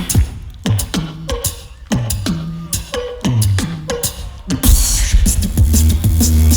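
Tag team beatboxing through a PA: a sparse passage of bass kicks that fall in pitch and short vocal tones, then about five seconds in a full beat drops, with a heavy sustained bass and dense hi-hat hiss.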